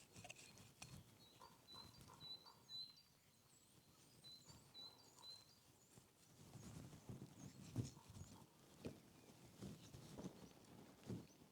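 Faint outdoor ambience: small birds chirping in short repeated notes. From about six seconds in come soft, irregular rustling and thumps, like footsteps and gear being handled.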